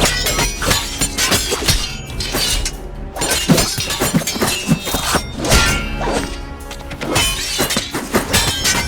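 Added fight sound effects: a rapid, irregular run of hard punch and kick impacts over a film music score.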